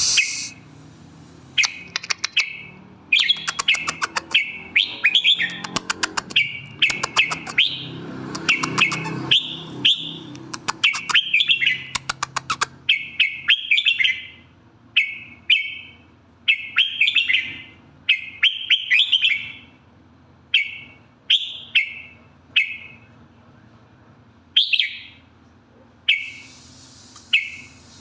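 Red-whiskered bulbul singing: short, repeated whistled phrases about once a second, with sharp clicks through the first half.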